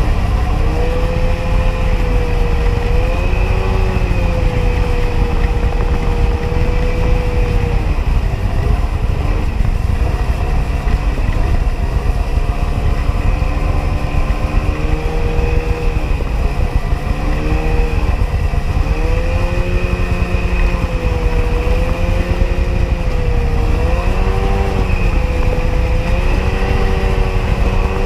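A Sea-Doo XP jet ski's 80 hp two-stroke engine running under way. Its pitch rises and falls again and again with the throttle, over a heavy low rumble.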